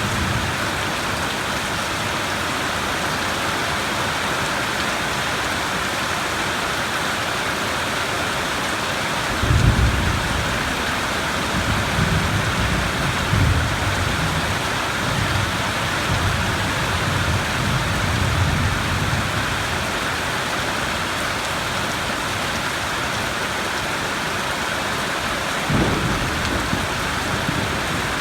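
Steady rain with thunder. A sudden low thunderclap comes about a third of the way in and rolls on as rumbling for about ten seconds, and another short low clap follows near the end.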